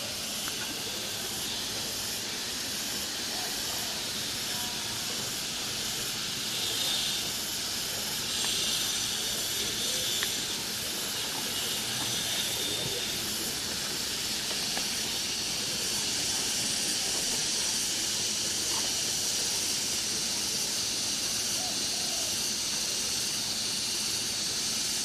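Chicken satay skewers sizzling on a grill: a steady hiss with a few small crackles.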